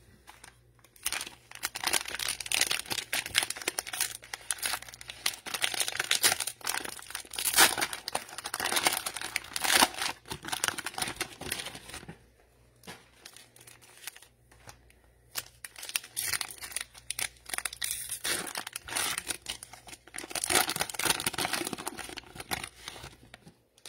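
Cellophane wrapper of a trading-card cello pack crinkling and tearing as it is opened by hand, in two long stretches with a pause of a few seconds about halfway.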